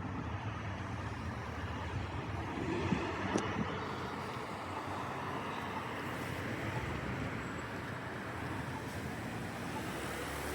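Steady vehicle noise, an even rumble without pitch, with a couple of faint clicks about three seconds in.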